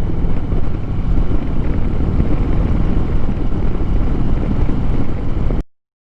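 Wind buffeting the microphone over the running engine of a 2007 Harley-Davidson Street Glide at riding speed, a loud steady rush strongest in the lows. It cuts off abruptly to total silence near the end.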